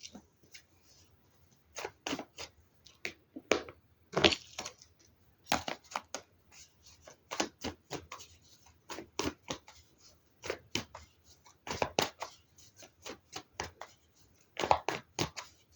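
A tarot deck being shuffled and handled by hand: irregular papery flicks and snaps of the cards, some in quick flurries.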